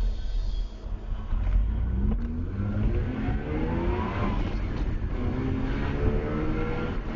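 Mazda RX-8's two-rotor rotary engine accelerating hard, heard from inside the cabin. The revs climb through one gear, drop at an upshift about four seconds in, then climb again in the next gear.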